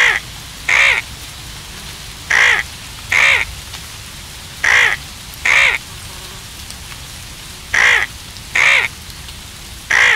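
A bird's harsh calls, given in pairs, a pair every two to three seconds, over a steady hiss.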